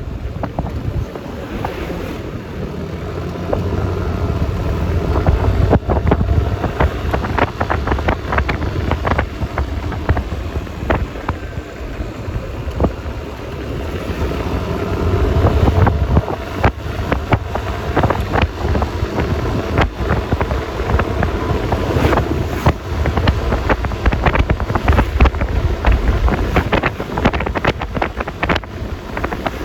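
Wind buffeting the microphone of a moving scooter, over the low running of a Yamaha Lexi LX 155 scooter's engine and tyre noise on the road. The buffeting crackles irregularly and swells several times.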